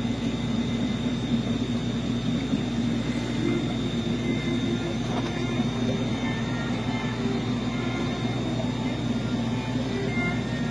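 Steady machine hum and hiss with a constant high whine, unchanging throughout.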